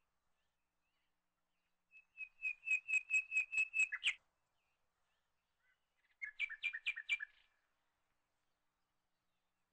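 A bird chirping in two bursts of rapid repeated high notes, about two seconds in and again about six seconds in.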